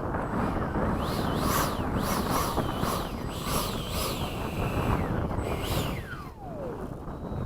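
Electric ducted-fan whine from a 70 mm RC F/A-18 jet, rising and falling in pitch again and again as the throttle is blipped. Near the end it winds down in one long falling glide. Wind rumbles on the microphone throughout.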